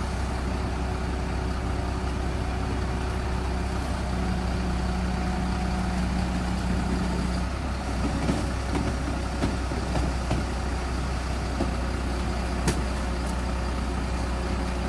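Crane truck's diesel engine running steadily with a deep drone. A higher steady whine comes in about four seconds in and stops about halfway through. A few light knocks and one sharp click follow in the second half.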